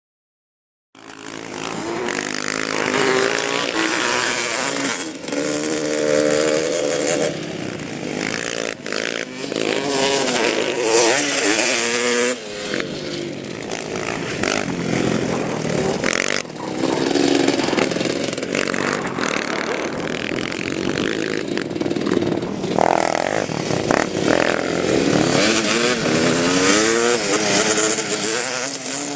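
Small motorcycle engines running and revving, the pitch rising and falling again and again as the throttle is worked. The sound starts suddenly about a second in and changes abruptly several times.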